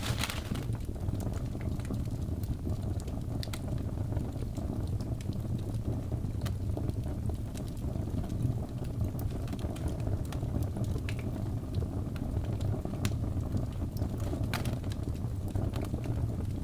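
Wood fire burning in a fireplace: a steady low rush of flames with sharp crackles and pops from the logs at irregular moments, a strong pop right at the start and several more scattered through.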